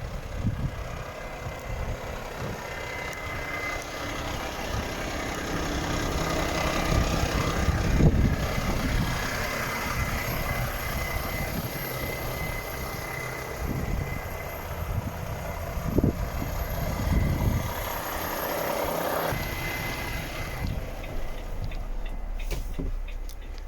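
Volvo FH 460 truck's 13-litre six-cylinder diesel running, a steady rumble with irregular low thumps; near the end it drops quieter and a few sharp clicks sound.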